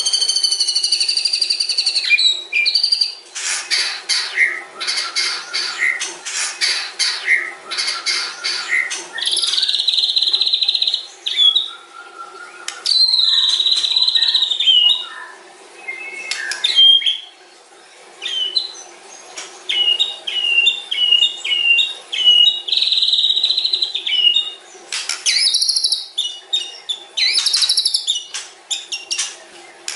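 White-rumped shama singing a long, varied song: clear whistles and pitch glides, a stretch of fast rattling clicks in the first third, and a quick run of repeated short notes later on.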